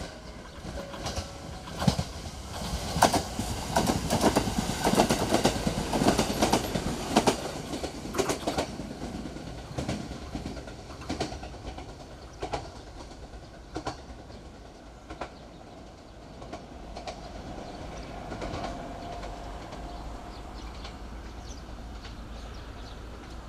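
JR West 683 series limited express electric train passing through a station without stopping, its wheels clacking over the rail joints and points. The clacking is loudest and fastest in the first several seconds, then thins out and fades as the train draws away.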